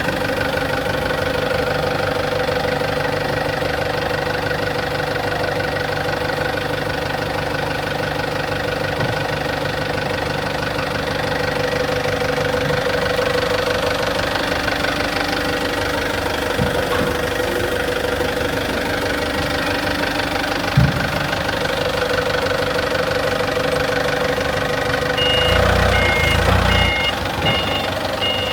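Excavator's diesel engine running steadily, with one sharp knock about two-thirds of the way through. Near the end the engine grows louder and a series of short, high beeps sounds.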